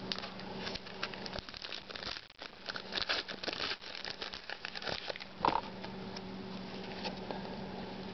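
A foil trading-card pack crinkling and tearing open and cards being handled: a flurry of irregular crackles over the first six seconds, with one sharper snap about five and a half seconds in.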